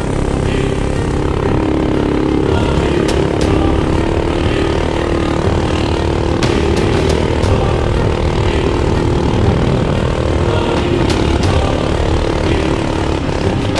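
Small mini bike engine running steadily with a buzzing drone, with a few sharp clicks or knocks scattered through.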